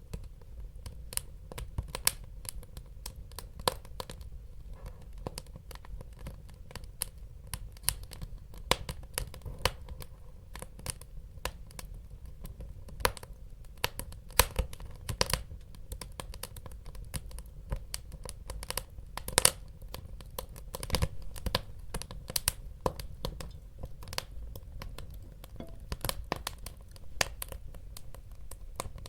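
Wood fire burning in a fireplace: irregular sharp crackles and pops, several a second and uneven in loudness, over a steady low rumble of the flames.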